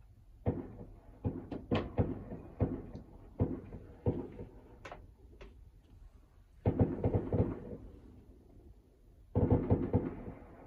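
A string of sharp knocks and clicks, a dozen or so over the first five seconds, then two short bursts of rapid clattering about seven and nine and a half seconds in.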